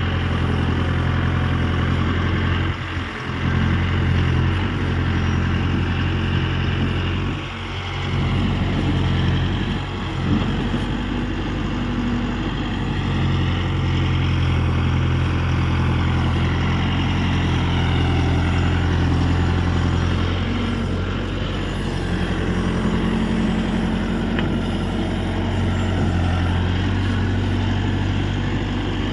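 Mahindra 605 4WD tractor's diesel engine running steadily under the mounted backhoe loader, with brief dips in loudness about three and seven and a half seconds in.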